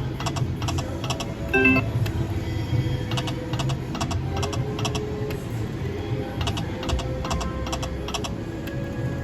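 Slot machine in play: quick runs of clicks as the reels spin and stop, with a short chime about a second and a half in, over the machine's game music and a steady low casino hum.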